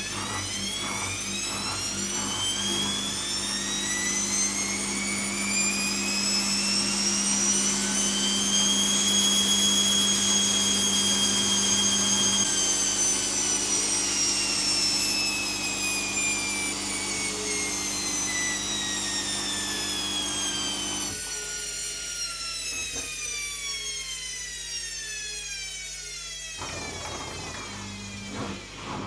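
Zanussi ZKN7120L washing machine spinning: the motor and drum whine climbs in pitch for about ten seconds, then falls slowly as the drum slows down.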